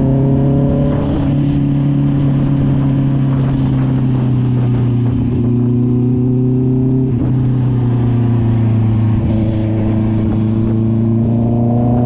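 Honda CB650R's inline-four engine running through an SC-Project aftermarket exhaust while the bike is ridden. The engine pitch climbs slowly, drops back about seven seconds in, then climbs again.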